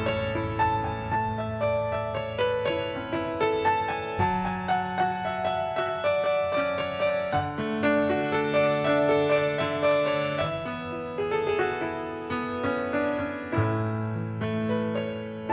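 Piano playing an instrumental interlude between sung verses: sustained chords in the low and middle range with a slow melody above, and no voices.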